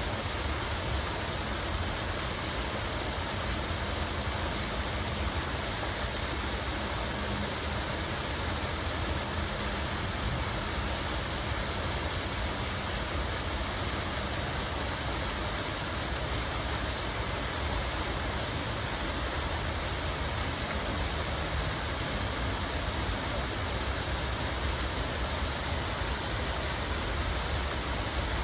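Steady, unbroken rush of falling water, with a low rumble underneath.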